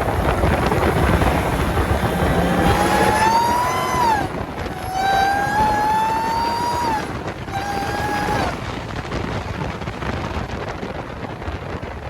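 Dodge Charger R/T's supercharged 5.7 Hemi V8 pulling under acceleration, its supercharger whine rising in pitch three times and dropping off between the pulls, over engine and wind noise.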